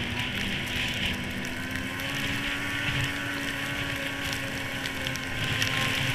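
1998 Yamaha SRX700 snowmobile, a three-cylinder two-stroke, running at a fairly steady speed while being ridden, its engine and track noise holding an even pitch.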